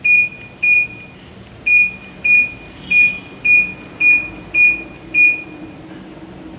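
Samsung split air conditioner's indoor unit beeping: nine short, high beeps, mostly about half a second apart with a longer pause after the second. These are the confirmation beeps the unit gives for remote-control commands. A faint low hum comes in about halfway through.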